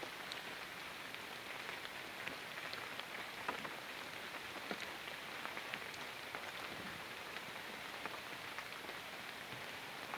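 Light rain pattering steadily, a soft even hiss with many scattered drop ticks.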